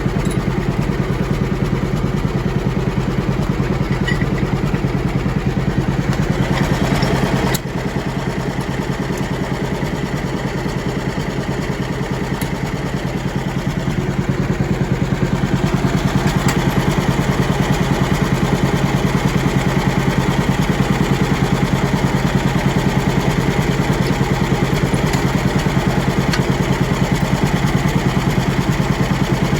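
John Deere B two-cylinder tractor engine running at low speed with a steady, even pulsing beat. It drops a little in loudness about seven and a half seconds in and comes back up around sixteen seconds.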